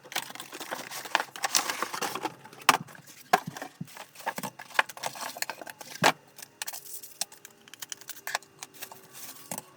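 Irregular clicks, taps and rustles of small objects being handled, busiest in the first few seconds, with one sharper click about six seconds in.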